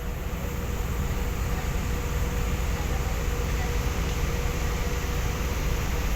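Steady low rumble with a faint constant hum, typical of a navy ship's machinery running.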